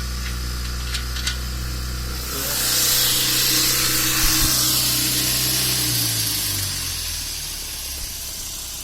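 The engine of a home-built all-terrain vehicle idles steadily. Near the end it slows, dropping in pitch, and dies away. From about two seconds in, a loud hiss rises over it and lasts several seconds, and there are two light clicks about a second in.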